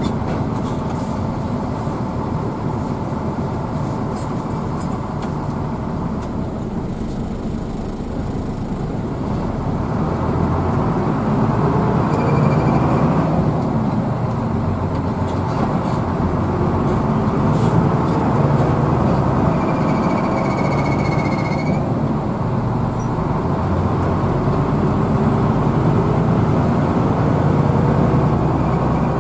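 Hino AK bus engine and road noise heard from inside the passenger cabin while under way, the engine note climbing and swelling a few times as the bus picks up speed.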